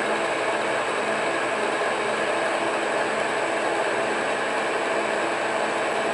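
Monarch engine lathe running at a steady speed, an even mechanical hum with a faint steady whine and no change in pitch.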